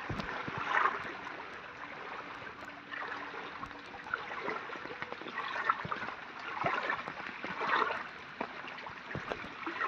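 Floodwater trickling and running steadily, with a few small knocks and splashes.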